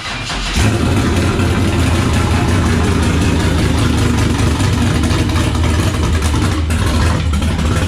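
LS-swapped Fox-body Mustang's V8 running loud and steady just after being fired up. It gets a little louder about half a second in, then holds an even idle.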